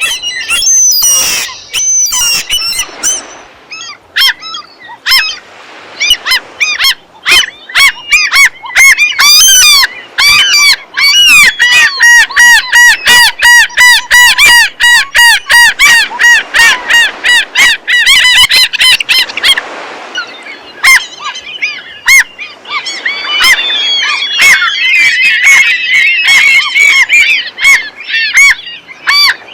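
Gulls calling: loud, repeated cries, with a fast run of short calls, several a second, through the middle and several birds calling over one another near the end.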